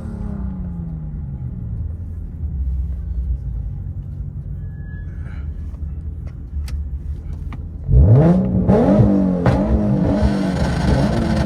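Car engine running low and steady, then about eight seconds in a sudden burst of revving, the pitch shooting up and dropping back several times in quick succession.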